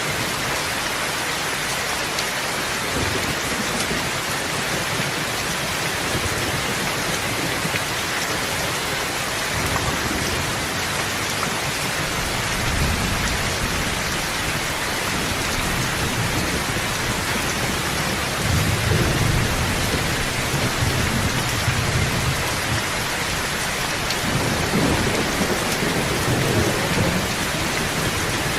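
Steady heavy rain hissing, with low thunder rumbling in the distance several times, growing stronger in the second half.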